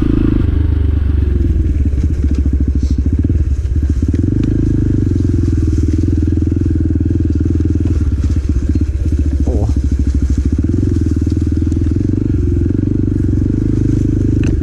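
Motorcycle engine running while riding, heard through a mic inside the rider's helmet. The engine note shifts about four seconds in and again around eight to nine seconds.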